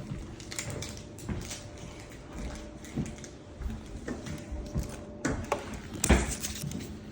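Irregular knocks, clicks and scrapes of hands and tools working on fixtures, with a heavier thump about six seconds in, over a faint steady hum.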